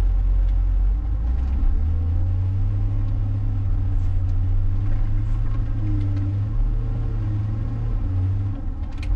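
John Deere 544K wheel loader's diesel engine running under load as it pushes a snow pile: a deep, steady drone that eases off slightly near the end.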